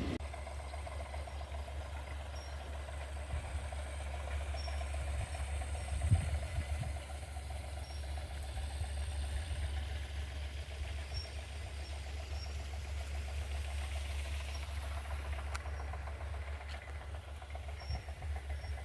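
An engine idling steadily with a low rumble, and a single thump about six seconds in.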